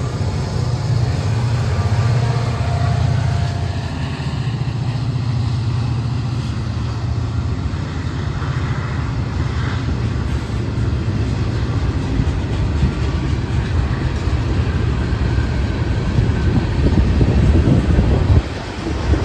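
Freight train passing close by: the EMD SD40-2 and GP40-2 diesel locomotives run past with a deep engine rumble for the first few seconds, then give way to ballast hopper cars rolling by with a continuous wheel clatter that grows louder toward the end.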